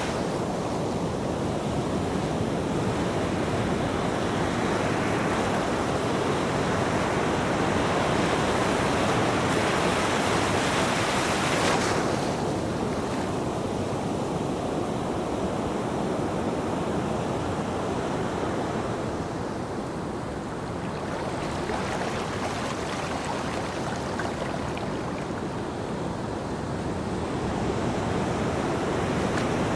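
Ocean surf breaking and washing on a beach: a continuous rush that swells and eases, loudest around ten seconds in, where a bright hiss of wash cuts off suddenly.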